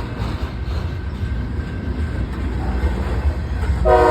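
Freight train rolling past with a steady low rumble of cars on the rails. Near the end a locomotive's multi-note air horn starts to sound.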